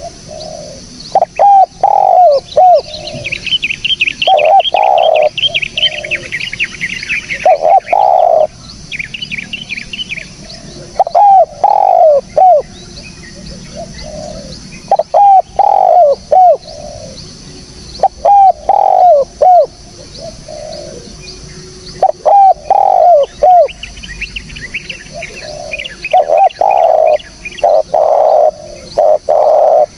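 Spotted dove (tekukur) cooing: short phrases of several low coos, repeated again and again. Between them, smaller birds give fast, high-pitched chirping trills.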